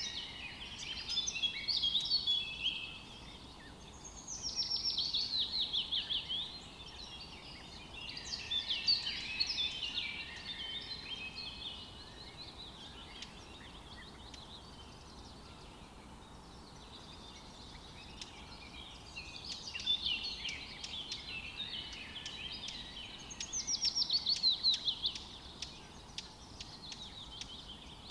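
Songbirds singing in forest ambience: phrases of two or three seconds come every few seconds, some of them quick falling trills, with a quieter gap in the middle. A faint steady background hiss runs under them.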